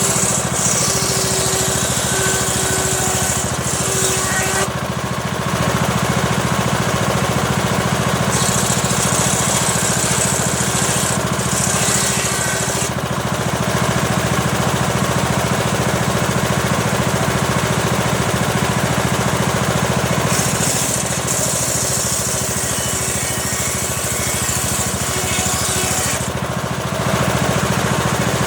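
Homemade circular saw rig running steadily while ripping a small teak log, its motor droning with a higher hiss that comes and goes three times, several seconds each, as the blade works through the wood.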